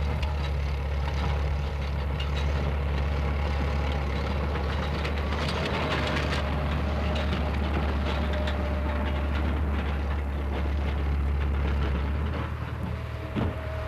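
Heavy earth-moving machinery running steadily, a low engine drone with mechanical noise over it.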